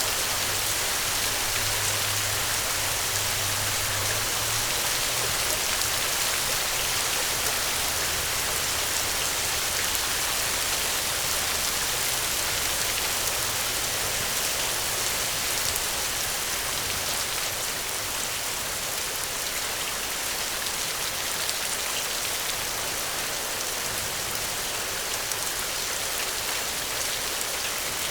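Steady rain falling, an even, dense patter of drops with no thunder.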